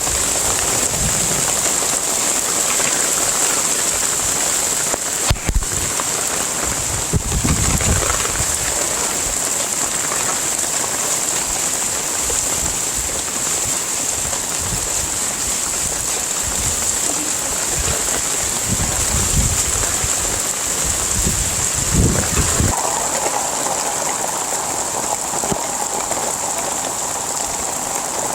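Heavy rain falling steadily as a dense hiss.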